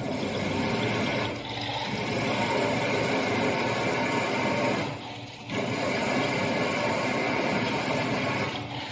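CNC drilling and tapping machine cutting a 15 mm steel plate: a steady mechanical whir with several fixed tones, dipping briefly about a second and a half in, again about five seconds in, and near the end.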